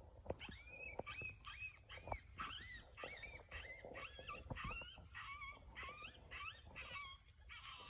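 A run of high, whining yelps, about a dozen in eight seconds, each rising and then falling in pitch: coyote-like whimpering cries, with faint scattered taps underneath.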